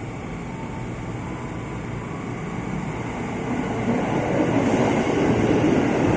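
A train approaching on the rails, its rumble growing steadily louder.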